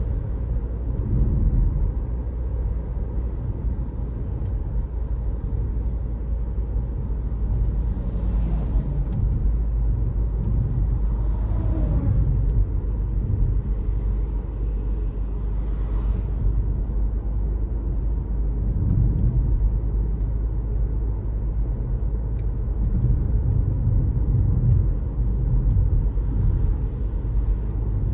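Car driving on a road: a steady low rumble of tyres and engine, with a few brief swells of noise rising and fading.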